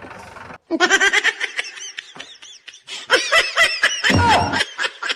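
High-pitched giggling laughter in two quick runs of short rising-and-falling peals, the first starting about a second in and the second around three seconds in.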